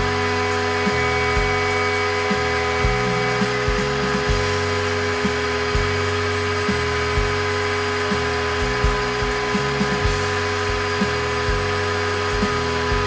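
A DIY CNC router running a cut: the spindle gives a steady whine, and lower motor tones shift in pitch every second or so as the axes change speed and direction.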